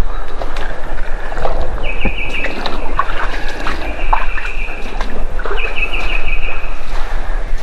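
A songbird repeating a short, even trill about every three to four seconds, over a steady noisy background with a low rumble.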